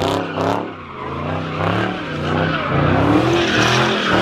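Car engine revving hard during a slide, its pitch rising and falling, with tires screeching on the pavement.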